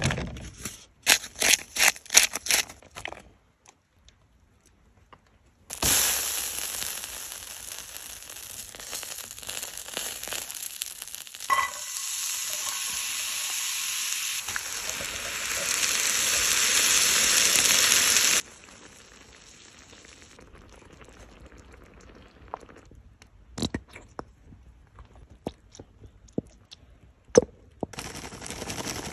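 Diced onions sizzling in a hot black skillet. The sizzle starts suddenly about six seconds in, grows louder, and stops abruptly about twelve seconds later. Before it comes a quick run of sharp slaps and clicks, and after it only scattered faint clicks.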